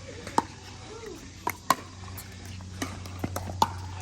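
Pickleball rally: sharp, irregularly spaced pops of paddles striking the hard plastic ball, the loudest near the middle, over a steady low hum.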